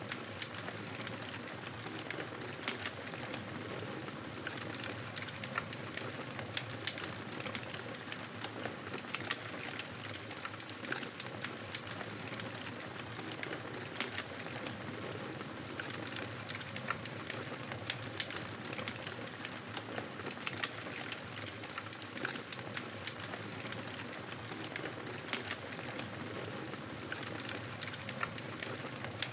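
Wood fire crackling in a fireplace: a steady hiss of burning with frequent small, sharp pops.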